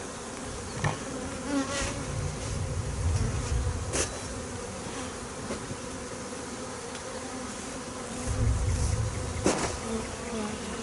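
Honeybee swarm buzzing around the entrance of the hive it has just been put into, a steady hum. Two spells of low rumble and a couple of sharp clicks lie over it.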